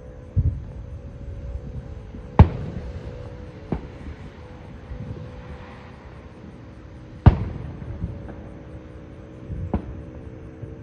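Aerial fireworks shells bursting: a series of booms, two of them much louder and sharper, about five seconds apart, with lighter bangs between and a rolling echo after each big one.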